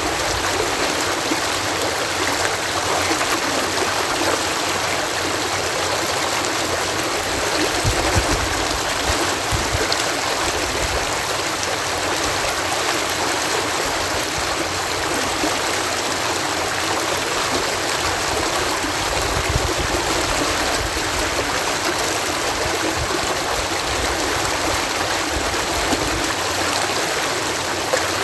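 Water pouring over a canal lock in a steady, even rush, with occasional low rumbles underneath.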